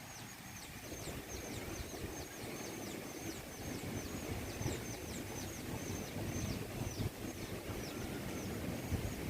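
Strong storm wind buffeting the microphone in uneven gusts, with a high, thin chirping repeating about two to three times a second.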